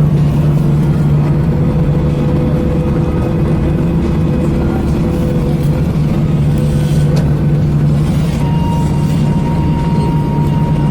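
Steady cabin noise inside an Airbus A320 running on the ground: a loud constant low hum over a hiss of air and machinery, with a few faint ticks. A thin steady whine joins about eight seconds in.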